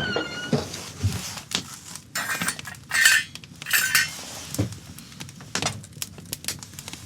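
Metal cookware and utensils clinking and knocking, with three short scraping strokes about two to four seconds in.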